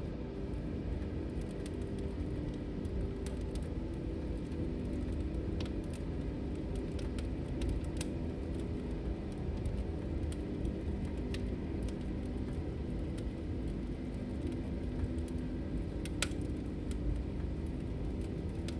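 Wood fire burning in a fireplace: a steady low rumble of flames with scattered crackles and pops, one sharper pop about sixteen seconds in.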